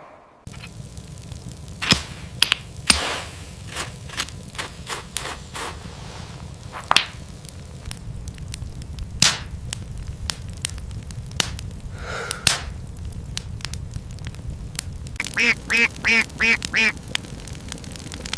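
A run of about six quick quacking calls near the end, over a steady low rumble with scattered clicks and knocks.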